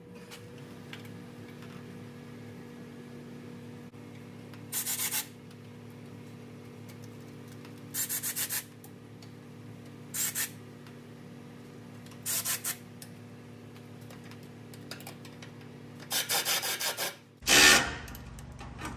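Short rasping bursts of a tool running in the exhaust manifold heat shield bolts, five bursts each under a second, over a steady low hum. One louder clatter comes near the end.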